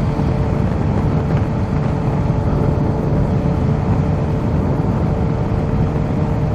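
Kawasaki Z H2 motorcycle's supercharged inline-four running steadily under way, with wind rush over the rider's microphone; no change in engine speed.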